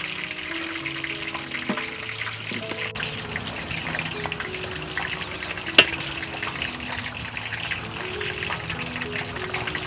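Food frying in a wok, a steady sizzle, while a metal ladle stirs and clinks against the pan, with a sharp clink about six seconds in.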